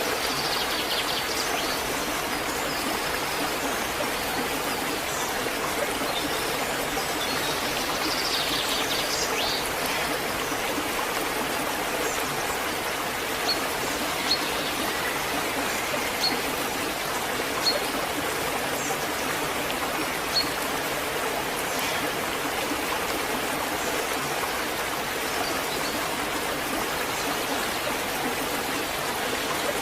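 Waterfall rushing steadily. A few short, high, sharp sounds stand out briefly in the middle.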